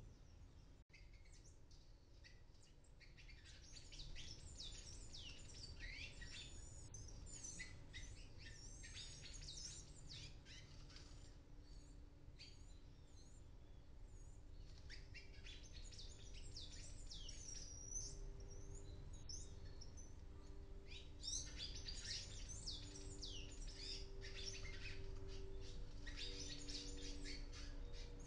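Palm tanagers chirping: quick, high calls in clusters, starting a few seconds in, pausing now and then and thickening near the end, over a steady low hum.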